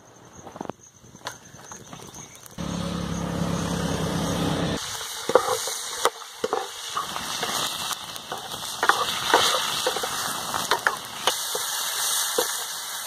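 Chicken pieces sizzling in hot oil in a frying pan over a small wood fire, with sharp crackles and clicks from the fire and the metal ladle. The sound changes abruptly a few times. From about three to five seconds in, a low hum runs under the sizzle.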